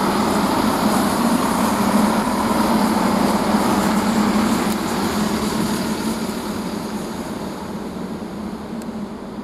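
Great Western Railway Class 165 diesel multiple unit running into the platform, its diesel engines and wheels loudest a few seconds in, then fading as the train slows.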